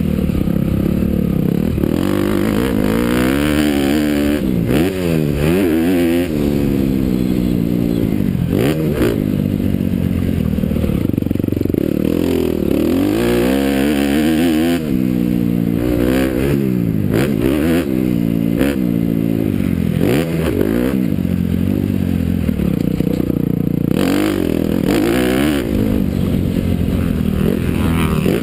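Honda CRF250R dirt bike's single-cylinder four-stroke engine being ridden hard, its pitch climbing under throttle and dropping back over and over as the rider accelerates, shifts and backs off.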